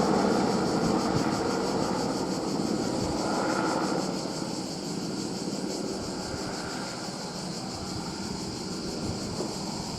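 Airbus AS350 helicopter flying away, its steady rotor and turbine noise fading gradually as it goes.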